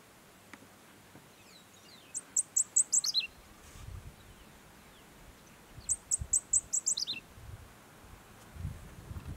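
A small bird singing twice: each phrase a quick run of about half a dozen high, clipped notes that drops lower at the end.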